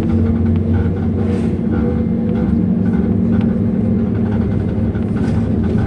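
Inside a MAZ-105 articulated city bus under way: its engine and drivetrain give a steady low drone with road noise.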